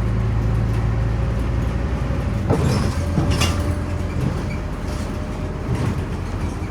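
Scania OmniCity city bus heard from inside while under way: a steady engine hum with road and body rattle. The engine note drops about two and a half seconds in, with a couple of sharp knocks around then.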